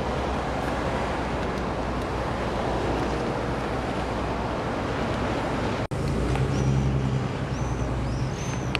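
A steady rushing noise with a low rumble, then, after a sudden cut about six seconds in, a vintage rally car's engine runs with a steady low note as the car pulls away. A few short high chirps sound near the end.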